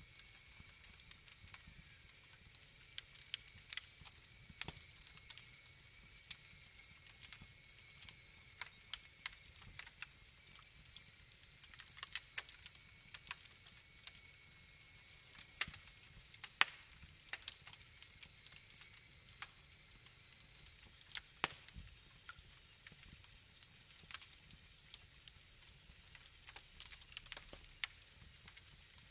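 Wood fire burning, its logs crackling and popping in sharp, irregular snaps of varying strength over a faint steady hiss. A faint high whistle runs under it and fades out after about twenty seconds.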